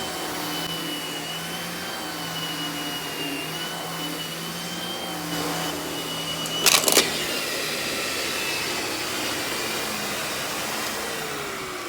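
Miele canister vacuum running with a Vacuflo TurboCat air-turbine brush head on carpet: a steady motor drone with a high turbine whine. About seven seconds in there is a brief loud clatter.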